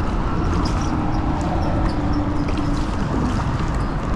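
Wind blowing on the microphone and choppy water lapping against a kayak hull, a steady noise heavy in the lows, with scattered light clicks and small splashes.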